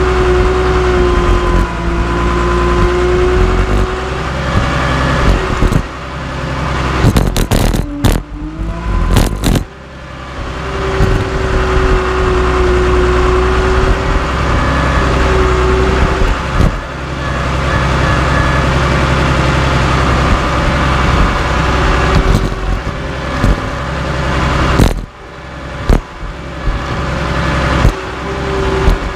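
Cat D3C LGP crawler dozer's diesel engine running hard, with a held whine that wavers in pitch. A cluster of sharp clanks about a quarter of the way in and another near the end as the dozer crushes scrap steel wheels.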